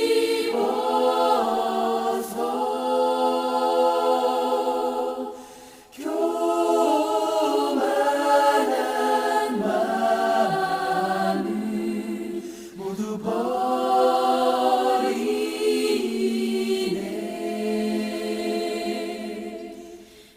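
Background choir music: voices singing held chords in long phrases, with a brief drop about six seconds in and a fade near the end.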